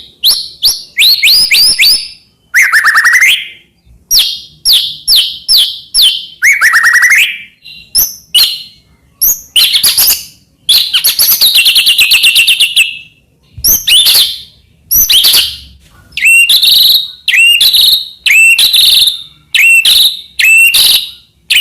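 White-rumped shama singing loudly in a fast string of varied phrases: rapid trills and notes that sweep up and down. Over the last several seconds it gives a run of similar short whistled notes, about two-thirds of a second apart.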